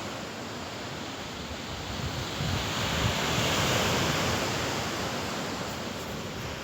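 Baltic Sea surf washing onto the shore: a wave swells about two seconds in, peaks in the middle and then eases. Wind buffets the microphone.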